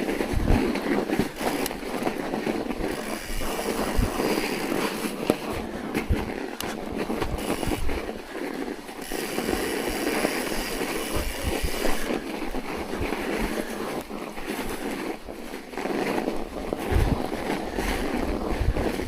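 Steady rumbling ride noise with wind buffeting the microphone, broken by scattered low thumps and bumps while moving through snow.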